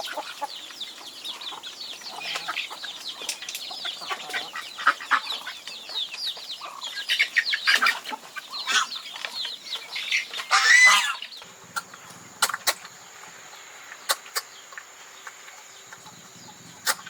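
A flock of chickens clucking and calling busily, with a brief loud flurry about eleven seconds in. After it the calls stop and only scattered clicks are left.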